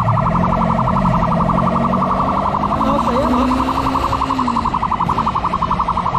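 Police siren sounding a fast pulsing warble, with a vehicle engine running underneath.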